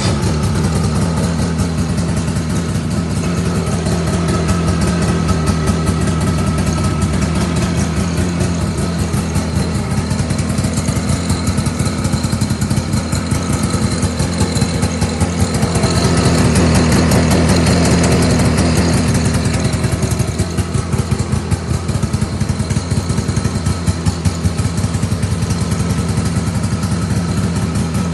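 Shibaura SF656ZXi portable fire pump's engine running steadily, with a louder stretch for a few seconds past the middle before it settles back.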